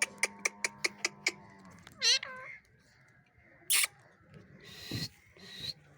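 Pet parrot calling: a loud wavering whistled call about two seconds in, then short harsh squawks near four and five seconds. Before the call, a run of quick sharp clicks over a low steady hum.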